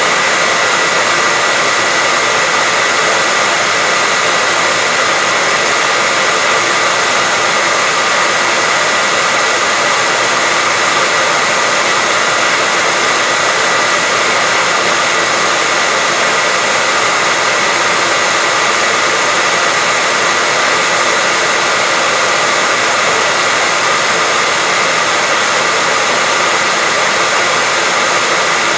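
Hair dryer running continuously as steady white noise for a baby's sleep: an even, unchanging rush of air with a steady whine near 2 kHz from the motor and fan.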